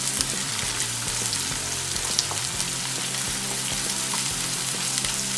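Chopped onions and ginger-garlic paste sizzling steadily in hot oil in a nonstick pan, stirred with a wooden spatula that adds small scraping clicks.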